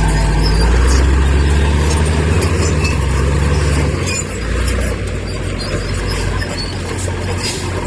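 Heavy diesel construction machinery running with a deep, loud engine drone that eases a little about halfway through, over light metallic clinks and rattles.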